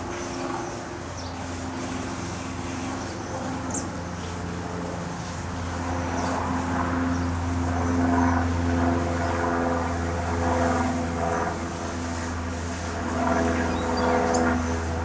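A vehicle engine running steadily, its hum growing louder about halfway through and again near the end, with a few brief high chirps.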